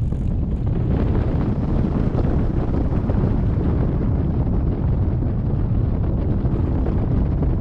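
Airflow buffeting a hang glider pilot's camera microphone in flight: a steady, loud rumble of wind.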